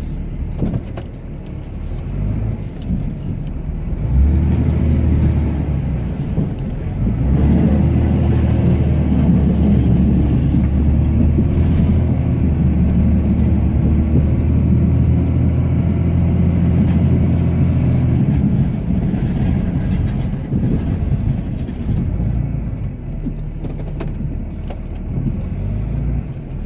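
Cummins turbo-diesel inline-six of a Ram pickup running under load while plowing snow, heard from inside the cab. It grows louder and steadier about four seconds in, holds for some fifteen seconds, then eases off.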